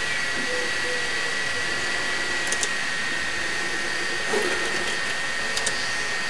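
Steady background hiss with a thin high whine, broken by a few light double clicks about two and a half seconds in and again near the end, typical of mouse clicks while working a program.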